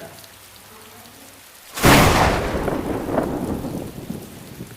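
Steady rain, then about two seconds in a sudden loud thunderclap that rumbles away over the next two to three seconds, swelling once more as it fades.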